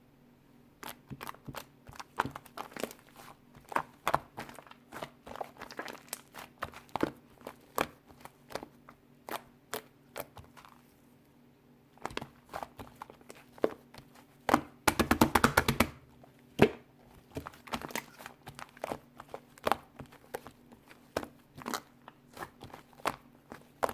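Slime being squished and poked by hand, giving irregular sticky clicks and pops, with a fast run of clicks about fifteen seconds in.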